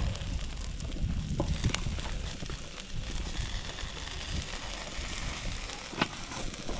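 Pizza with toppings sizzling and crackling on a Blackstone flat-top griddle, a steady hiss with a few sharp clicks.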